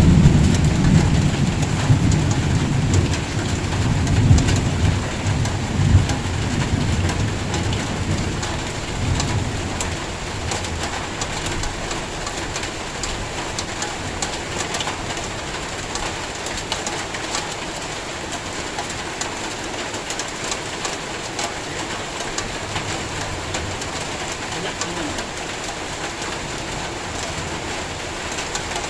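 Heavy rain pouring steadily, with scattered sharp drops tapping on nearby surfaces. A low rolling rumble of thunder runs under it and dies away about ten seconds in.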